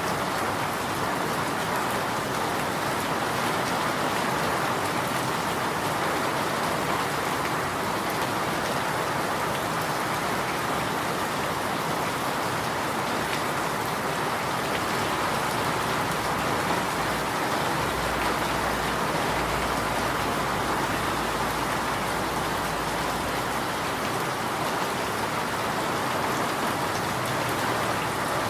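Steady rain falling on a bamboo grove, a dense even patter of drops on leaves with no breaks.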